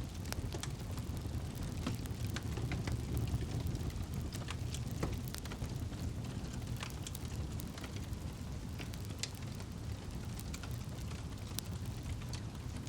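Campfire burning, with many irregular sharp crackles and pops over a steady low rumble of the flames.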